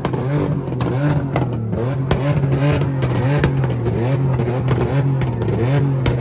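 Car engine revved hard over and over, its pitch rising and falling about twice a second as the car spins donuts, with sharp cracks scattered through.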